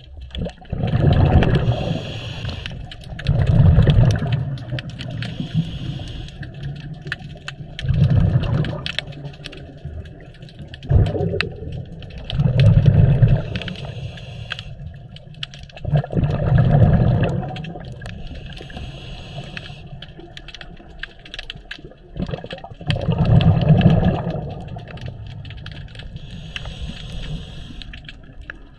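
Underwater scuba regulator breathing: the diver's exhaled bubbles go off in loud gurgling bursts every few seconds, about seven in all, with a light crackle of clicks between them.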